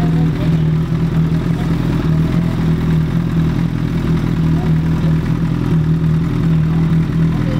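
Motorcycle engine idling steadily at a constant pitch, with no revving.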